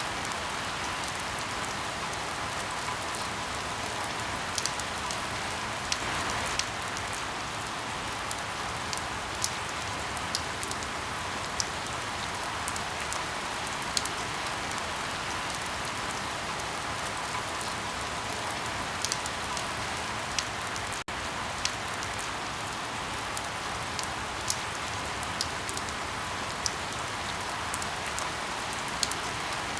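Steady rain with irregular sharp pops and crackles of firewood burning, a pop every second or so.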